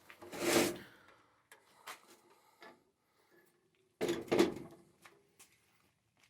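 Two short scraping, sliding clunks, about half a second in and again about four seconds in, with a few light clicks between, as the metal bandsaw is handled.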